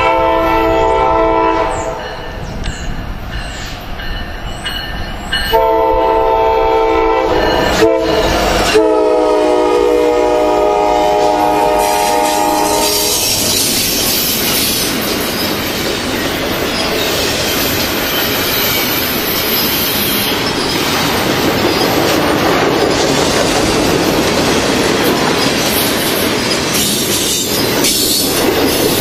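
Diesel locomotive air horn sounding three blasts, the last held about four seconds. A double-stack intermodal train then rolls past with a steady rush of wheel and rail noise.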